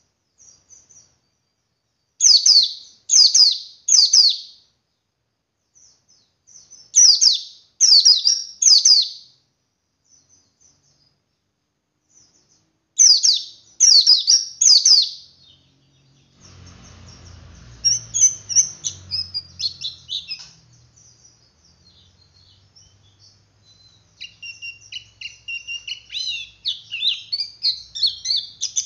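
Male white-eye (pleci) calling: sets of three loud, sharp, falling notes, given three times with pauses between. About halfway there is a brief rustling noise with a low rumble, then the bird breaks into rapid, continuous twittering (the 'ngeriwik' chatter), which grows denser near the end.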